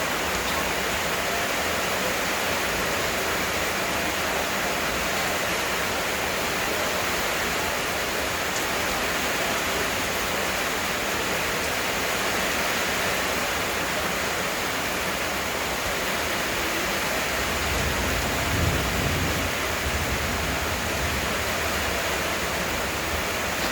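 Heavy rain pouring steadily, an even hiss. A low rumble rises for a few seconds near the end.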